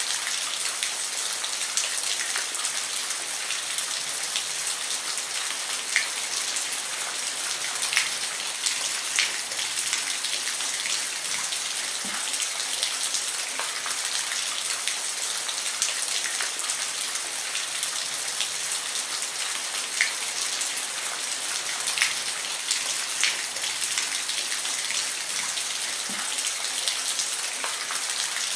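Steady rain falling on a roof: a constant hiss with scattered sharper drops ticking on the roof surface.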